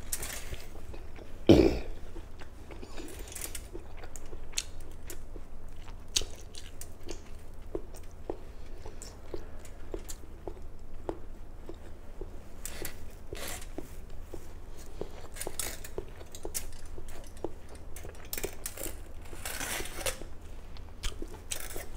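Close mouth sounds of a person chewing boiled egg: soft wet chewing with many small clicks of lips and jaw. A brief hummed voice sounds about a second and a half in.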